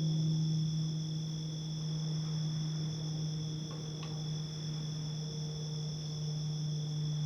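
Summer-night ambience: a steady low electrical-sounding hum, loudest, under a constant high-pitched chorus of night insects trilling at two steady pitches.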